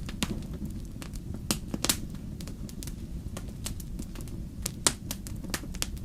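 Wood fire burning in a fireplace, crackling with irregular sharp pops and snaps over a low steady rumble. The loudest pops come about two seconds and five seconds in.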